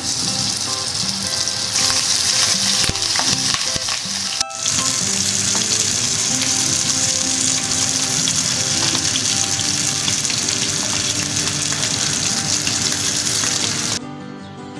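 Chicken drumsticks sizzling loudly as they pan-fry in hot vegetable oil in a non-stick wok, with a brief break about four and a half seconds in; the sizzle cuts off suddenly shortly before the end.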